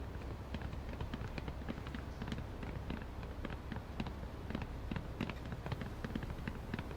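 A rapid, irregular series of light clicks and taps over a low, steady hum.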